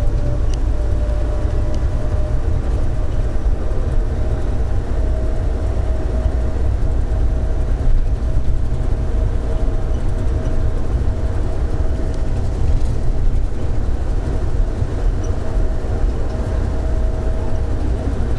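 Airport people-mover train running between stations, heard from inside the car: a steady low rumble with an even whine held on one note that rises slightly at the start.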